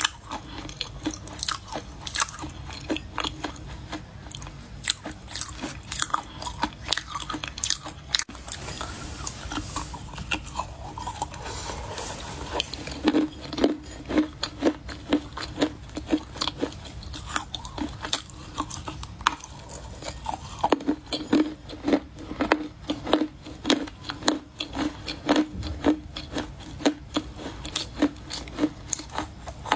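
Close-miked crunching of baked edible clay being bitten and chewed: many sharp, dry crunches. They become louder and settle into a steady chewing rhythm of about two a second from around halfway through.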